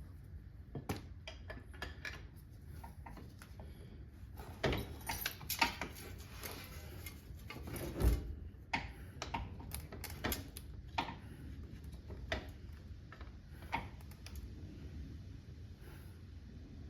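Irregular metallic clinks, knocks and rattles of hand tools and parts being handled during axle work on a car, busiest in the middle.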